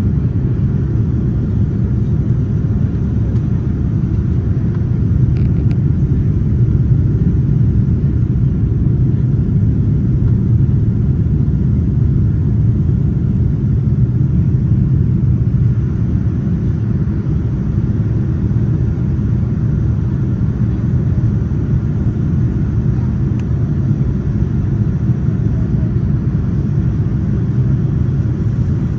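Steady low rumble of engine and airflow noise inside the cabin of a Boeing 787-9 airliner.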